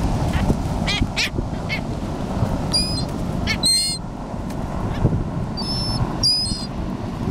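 Gulls calling in a handful of short, harsh squawks, over steady wind and surf noise.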